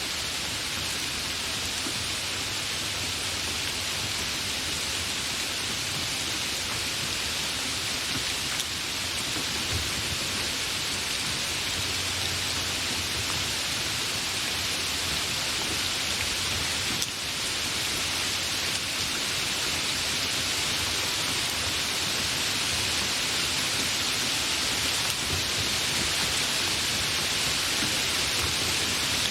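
Steady, fairly heavy rain falling, a continuous even hiss of drops with no thunder.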